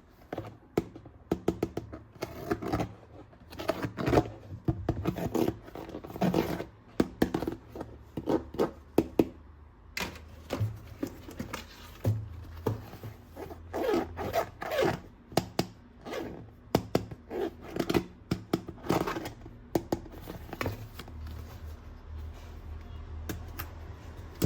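Hard plastic toy gun parts being handled and fitted together: irregular clicks, knocks and scrapes, some in quick runs.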